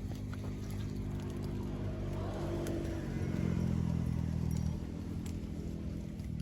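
A motor engine running steadily, a little louder for a couple of seconds in the middle, with a few faint clicks.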